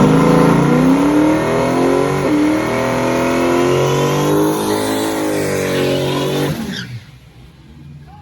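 A car engine accelerating hard, its pitch climbing, with a short break about two seconds in like a gear change, then climbing again. It levels off and cuts away sharply near the end.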